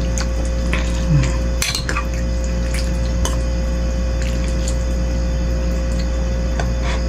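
Spoon and cutlery clinking against a bowl of bakso soup, a few scattered clinks with a small cluster about one and a half seconds in, over a steady low hum.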